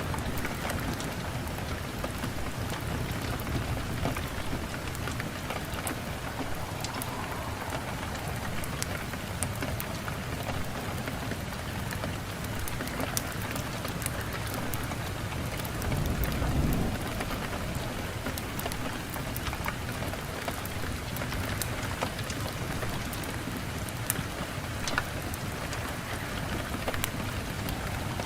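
Wood fire burning in a fireplace: a steady hiss of flames with many scattered sharp crackles and pops from the burning logs, and a brief louder low rush about sixteen seconds in.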